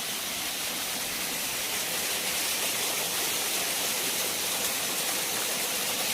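Waterfall on a mountain stream pouring steadily: an even, unbroken rush of water with a bright, hissy top.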